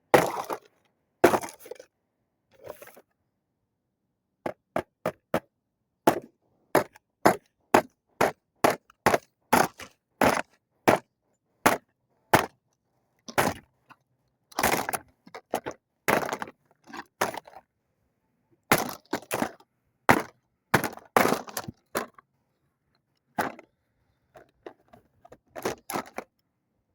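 A plastic toy microwave being smashed: dozens of sharp, irregular blows, coming in quick clusters with short pauses between.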